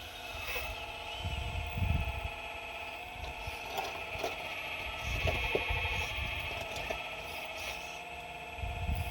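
Excavator digging at rocks: a steady high whine with low rumbles and scrapes coming and going, loudest about a second in, around the middle and near the end.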